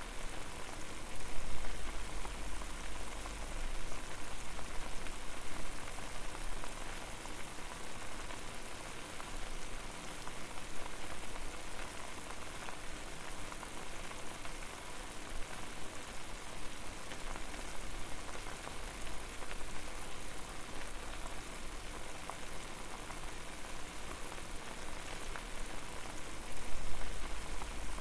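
Water at a rolling boil in a pot over a fire: steady dense bubbling and popping. A low rumble swells briefly about a second in and again near the end.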